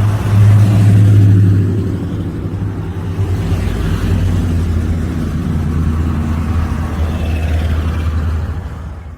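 A car engine running with a deep, loud exhaust rumble. It swells briefly about a second in, settles to a steady run, and fades out near the end.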